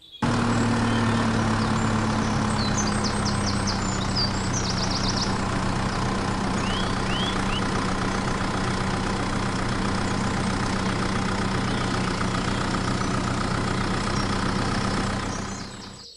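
A small machine running at a steady speed, an even engine-like hum that fades out near the end. Faint bird chirps come through a few seconds in.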